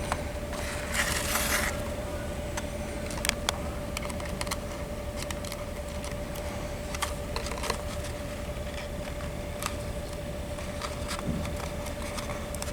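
Scattered light clicks and a brief rustle of hands handling bird-feeder bowls, straws and ribbon, over a steady faint hum.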